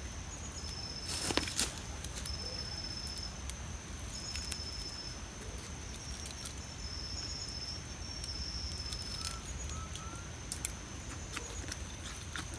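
Campfire crackling with scattered sharp pops, the loudest about ten seconds in, under a steady high insect drone and repeated short trills of insects in the woods.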